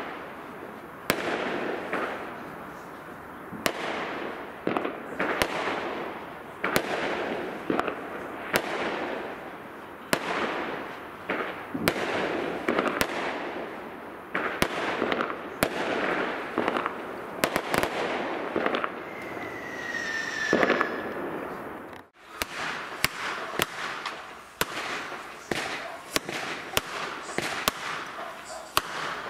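Fireworks going off: a rapid, irregular string of sharp bangs from bursting rockets and aerial shells, each trailing off, over a continuous rumble and crackle. About two-thirds of the way through, a short, slightly falling whistle rises above the bangs.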